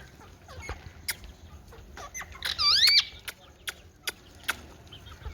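Indian ringneck parrot giving one loud, warbling squawk about two and a half seconds in, its pitch sweeping down and up. Scattered sharp clicks and taps are heard around it.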